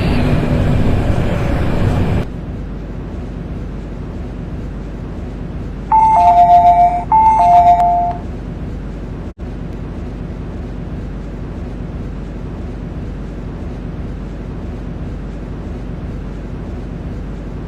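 MTR train door chime: a descending two-note electronic ding-dong sounding twice in quick succession about six seconds in, over the steady hum of the stopped train. Before it, the train's rumbling noise cuts off sharply about two seconds in.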